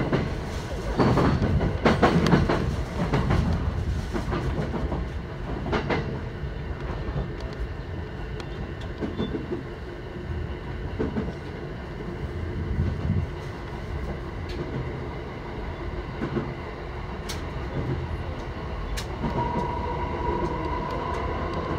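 Running sound from inside a JR East E129 series electric train: a steady rumble of wheels on rail, with clacks over rail joints in the first few seconds and again around six seconds in. Near the end a steady whine joins in.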